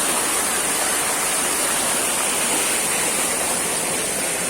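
Waterfall pouring steadily, a constant rushing of water.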